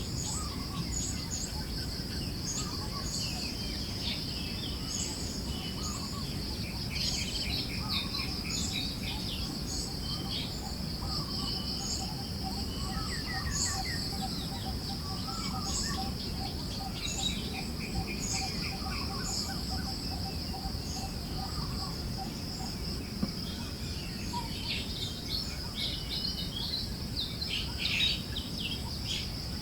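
Forest ambience: many small songbirds chirping and twittering over a continuous high insect drone, with a steady low wind-like rumble underneath. A low, evenly pulsed call runs through the middle stretch.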